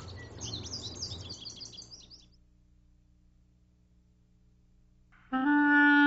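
A bird's rapid run of short, falling chirps over a faint background hiss, fading out about two seconds in. Near silence follows for about three seconds. Then a woodwind instrument comes in loudly on a held note near the end.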